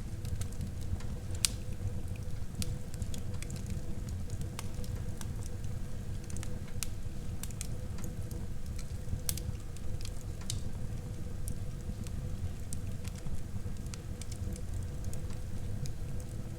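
Wood fire burning in a fireplace: a steady low rumble from the flames, with irregular sharp crackles and pops and one louder pop about a second and a half in.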